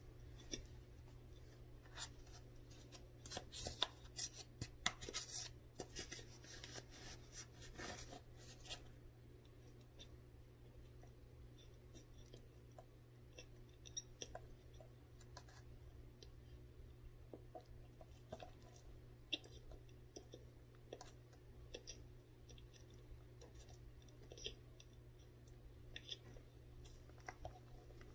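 Close-up chewing of frozen cornstarch: many sharp, crisp crunches, crowded together over the first several seconds and coming more sparsely after that.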